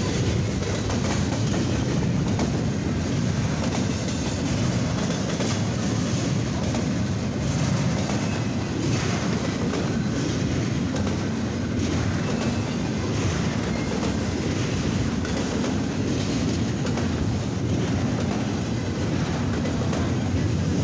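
Double-stack container well cars of a CSX intermodal freight train rolling past: a steady rumble of steel wheels on rail, with clicking over the rail joints.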